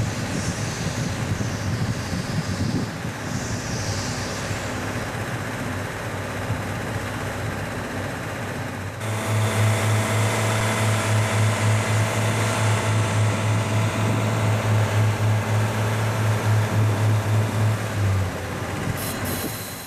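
For the first nine seconds, steam locomotive C58 239 shunting slowly, with two bursts of hiss early on. Then a four-car KiHa 142 diesel railcar set idling: a loud, steady low drone with a regular pulse, which stops shortly before the end.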